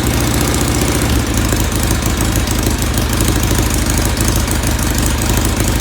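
1970 Norton Commando's 750 cc parallel-twin engine running steadily at a low, even speed, freshly started cold on choke.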